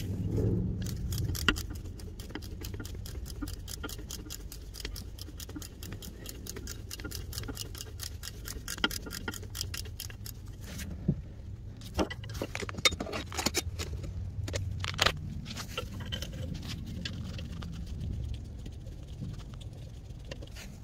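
Hand-tool work on an engine: a rapid run of small metallic clicks, then scattered sharper knocks and scrapes of metal parts, over a low steady rumble.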